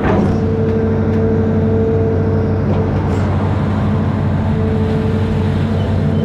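Amphibious excavator's diesel engine running steadily, with a higher whine that comes in just after the start, drops out around the middle and returns near the end, and a knock at the very start.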